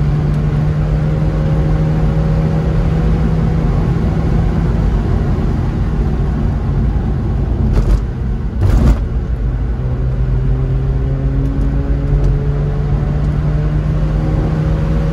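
Rotary-engined car heard from inside the cabin, its engine running steadily under tyre and road noise, with faint rising tones as it pulls. About eight seconds in the sound dips briefly and a couple of short knocks come through.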